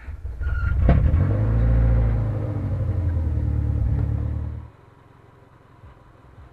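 Subaru Impreza's flat-four boxer engine being started with the key: a brief crank, then it catches about a second in and runs loudly for about four seconds. It is being run after a coolant change to push air out of the cooling system. About four and a half seconds in the sound drops sharply to a faint low hum.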